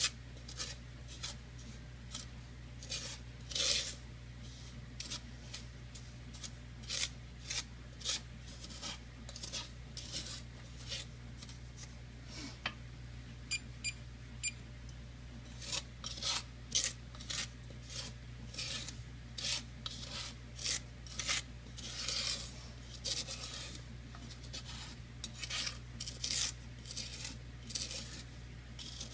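A utensil scraping and stirring sugar in a hot pan as it melts into caramel, in short irregular strokes, over a steady low hum.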